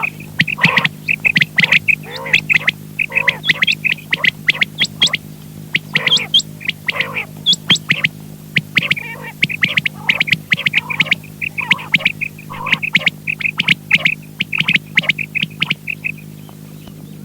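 Quail calling over and over in quick, short, high notes, with a steady electrical hum underneath. The calls stop shortly before the end.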